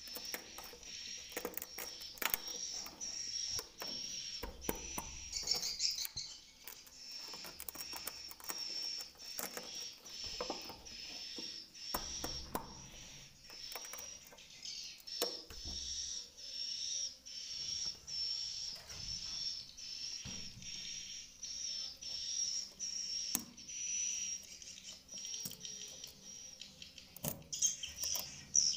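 Swiftlet calls inside a swiftlet house: a regular series of short high chirps, a little over one a second, with many sharp clicks scattered throughout.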